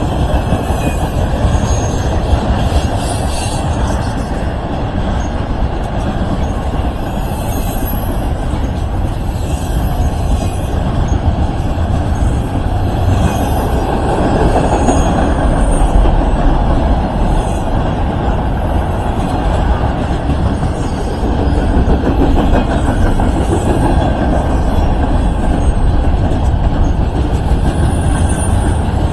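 Train rolling past on the track: a steady, loud rumble of wheels on rail, with faint high squeals now and then.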